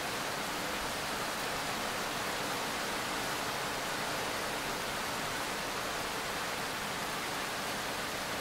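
Rain falling steadily: an even, unchanging hiss with no separate drops or thunder standing out.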